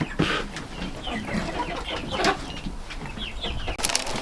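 Chickens clucking, a string of short clucks. A dense rustling hiss begins near the end.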